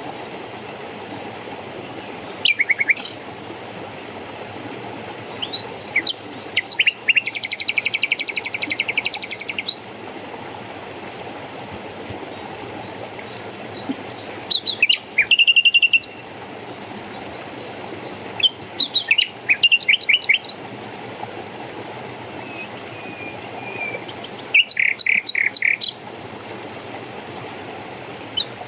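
Songbirds singing in short separate phrases a few seconds apart, one a rapid trill lasting about three seconds, over the steady rush of running water.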